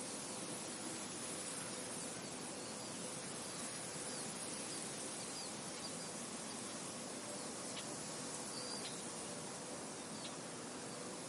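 Soft wind blowing steadily through a field, an even rushing hiss, with a few faint, short, high bird chirps, most of them in the second half.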